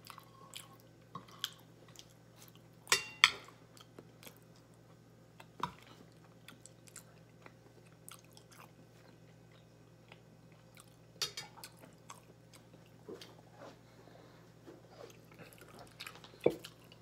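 Close-up eating sounds of a person chewing creamy baked macaroni: soft wet mouth clicks, with a few sharp clinks of a spoon against a plate, a pair about three seconds in and a cluster about eleven seconds in. A steady low hum runs underneath.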